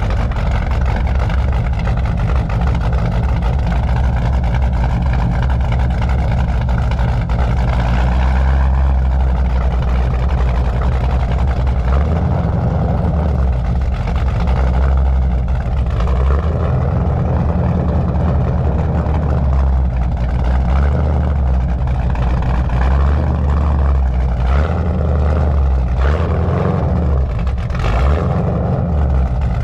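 Exhaust of a C4 Corvette's 383 stroker small-block V8, running loud and steady, the engine note shifting about eight seconds in.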